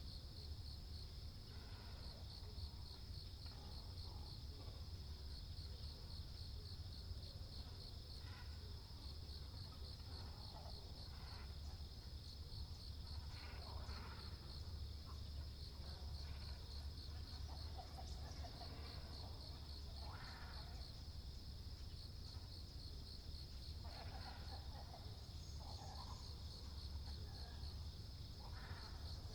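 Scattered short, hoarse calls of waterbirds, great cormorants and herons, every few seconds. A steady, high, evenly pulsing insect chirring and a low rumble run underneath the calls.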